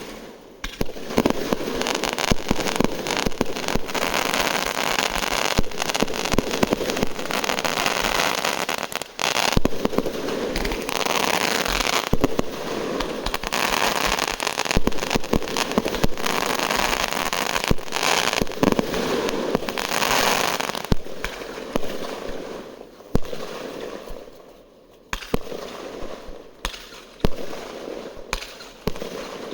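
Fireworks going off in a dense barrage of bangs and crackling for about twenty seconds, then thinning to scattered separate bangs near the end.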